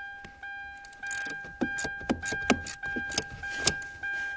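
A car's warning chime dinging over and over, about every 0.6 s. From about a second in, a run of sharp metallic clicks and knocks from hand tools working on the steering rack.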